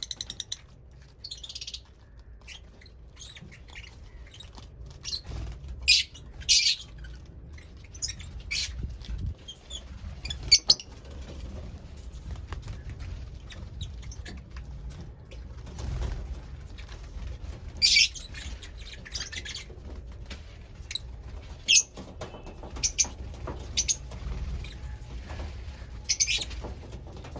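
Lovebirds giving short, shrill chirps now and then, with light clicks and rustling from the birds between the calls.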